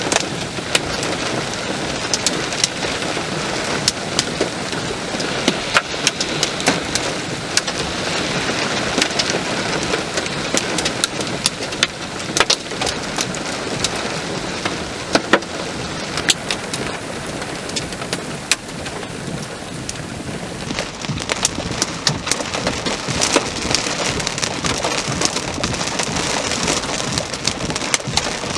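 Torrential thunderstorm rain pouring steadily, with many sharp ticks and knocks of hard drops striking a surface close by.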